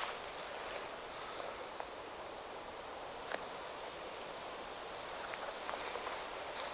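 Steady rustle of wind through forest trees, with three short, high bird chirps about a second, three seconds and six seconds in; the one at about three seconds is the loudest.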